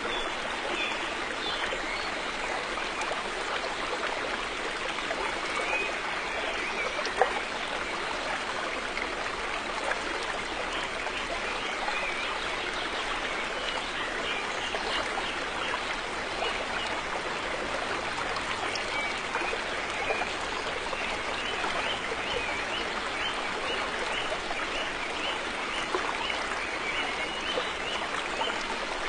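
River water flowing steadily over stones, a continuous rush with many small splashes and trickles through it.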